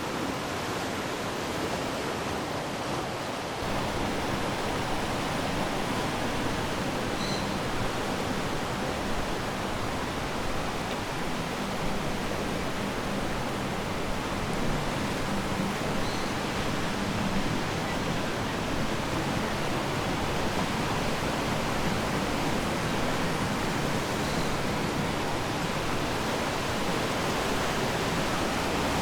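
Atlantic surf washing on the shore, a steady rush of water noise without distinct breaking waves.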